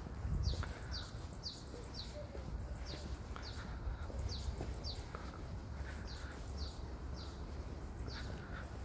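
A small bird calling over and over: a short, high note that falls quickly in pitch, repeated about twice a second. Beneath it is a low, steady background rumble.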